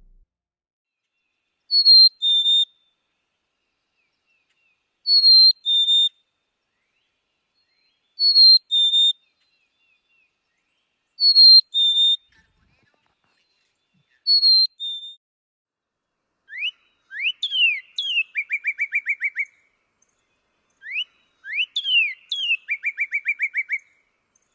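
Songbird song: a clear two-note whistle, the second note lower, sung five times about three seconds apart. From about two-thirds of the way in comes a different song, twice: a few rising slurred notes followed by a fast, even trill.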